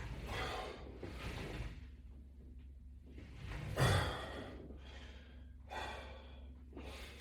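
A man breathing hard during an ab workout: a series of about five loud sighing exhales a second or so apart. The loudest one, about four seconds in, comes with a low thump.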